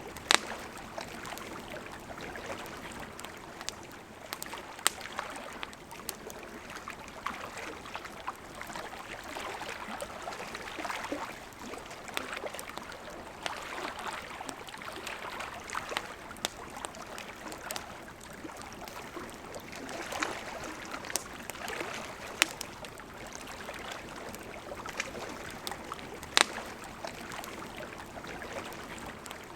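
Campfire crackling, with sharp irregular pops scattered over the steady rush and trickle of a river.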